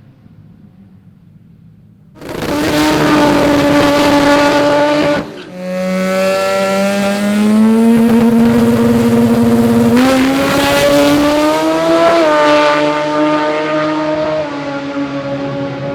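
Turbocharged Mazda rotary drag car engine coming in suddenly at high revs about two seconds in. After a brief drop the note climbs steadily, peaks, then settles a little lower near the end.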